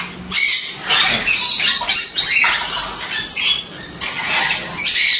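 A cage of quaker parrots (monk parakeets) chattering, a busy stream of shrill squeaks and short squawks, with a brief lull about three and a half seconds in.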